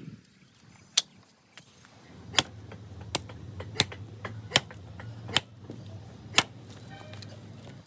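Sharp knocks, about one a second, irregularly spaced, from workshop work on wood. From about two seconds in they sit over a low steady hum that cuts off near the end.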